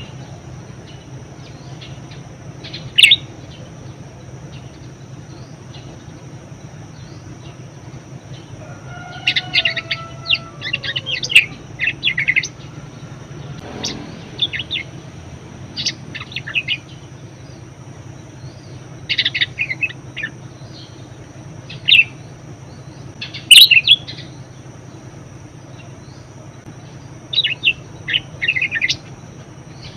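Budgerigar chattering in short bursts of quick, high chirps with pauses between them. Underneath there is a steady faint high whine and a low hum.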